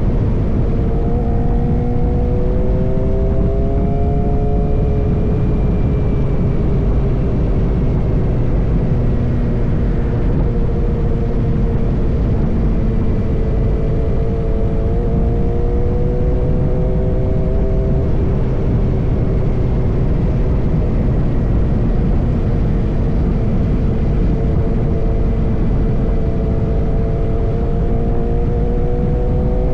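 Suzuki GSX-R motorcycle with an M4 full-system exhaust running steadily, its engine note rising and falling slowly and gently over a loud, steady rushing noise.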